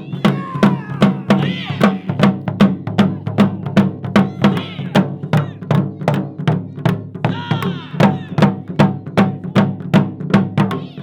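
Japanese taiko drums played by an ensemble: an even, driving run of loud strikes, about four a second, over a steady deep drum resonance.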